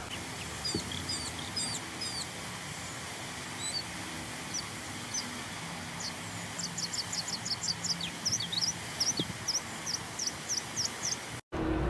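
A songbird singing from a tree: short, high chirps and whistled notes at first, then a quick run of rapid notes about halfway through, followed by a string of sharp up-and-down notes. It cuts off suddenly near the end.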